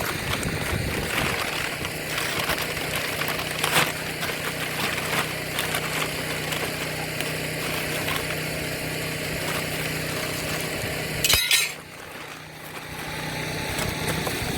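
Steel lawn-mower blades being handled, with scattered metal clinks and knocks and a louder clatter about eleven seconds in, over a steady low hum.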